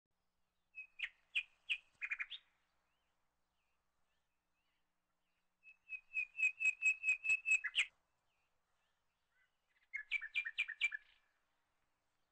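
A songbird chirping in three quick phrases of rapidly repeated high notes, about four to five notes a second. The middle phrase is the longest and loudest, at about eight notes.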